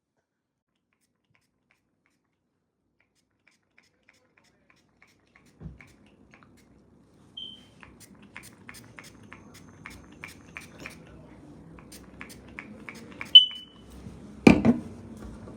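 A few seconds of silence, then light clicks at about two to three a second, two short high beeps, and a loud knock near the end.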